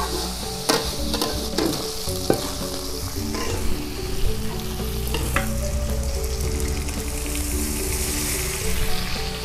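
Shredded tuna and whole green chillies sizzling in a steel wok while a metal spatula stirs, knocking and scraping against the pan several times. Near the end water is poured in and the sizzle becomes a louder, higher hiss.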